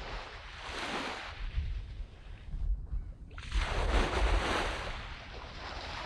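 Small waves breaking and washing up on a sand beach: one wash fading out in the first few seconds, then a fuller one rising about halfway through. A low rumble runs underneath.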